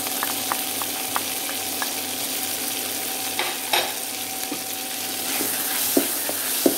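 Shredded dried fish sizzling in hot oil with garlic and ginger in a pan. A wooden spatula clicks against a plate as the fish is scraped in, then knocks and scrapes in the pan as it is stirred.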